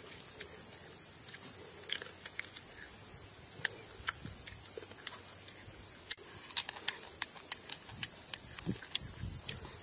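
Close-up eating sounds: small green fruit being bitten and chewed, with irregular sharp crunches and mouth clicks that come thicker in the second half. A steady high insect buzz runs underneath.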